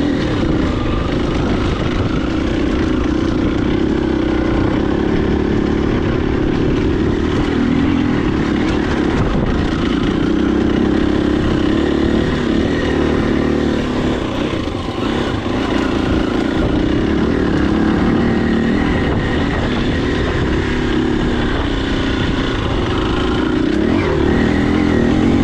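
Husqvarna FE250 dirt bike's single-cylinder four-stroke engine running while being ridden, its note rising and falling with the throttle.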